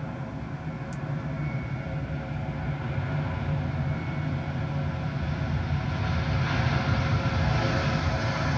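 Jet airliner engines running with a steady whine over a low rumble, getting louder near the end.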